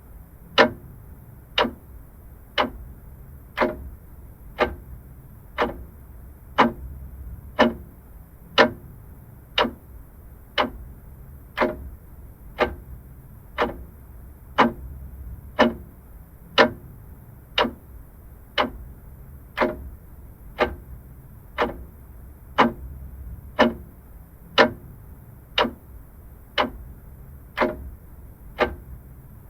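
Vintage clock ticking steadily, one tick a second, over a faint low hum.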